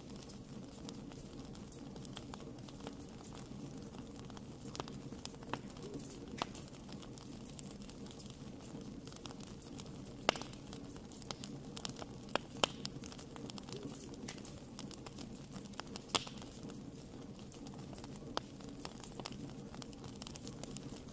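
Wood fire burning in a fireplace: a steady low rumble of flames with irregular sharp crackles and pops, a few louder snaps about ten, twelve and sixteen seconds in.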